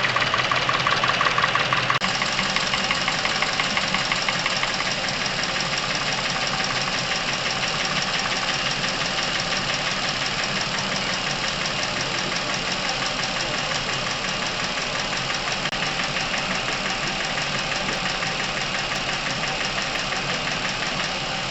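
Car engine idling steadily with a fast, even ticking from the valve train.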